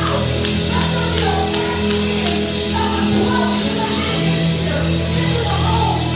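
Live worship music: a band with organ or keyboard chords, bass and drums, and voices singing over it.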